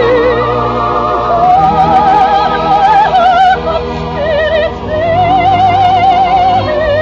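Soprano singing a slow love song with wide vibrato on long held notes, over a full orchestra.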